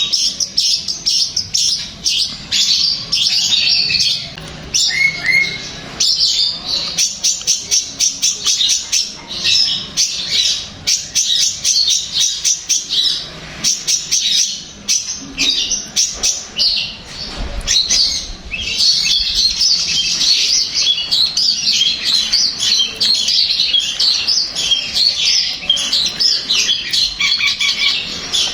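Long-tailed shrike (cendet) singing a fast, continuous chattering song of short high notes, with a couple of brief lulls.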